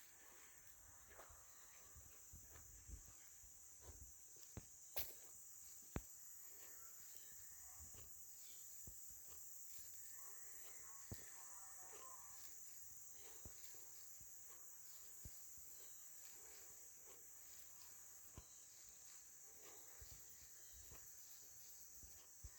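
Near silence: a faint, steady high insect chirring, crickets, with scattered soft footsteps and clicks.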